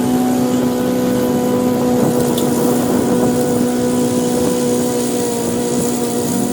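Toro Smart Stow self-propelled gas push mower's engine running at a steady pitch.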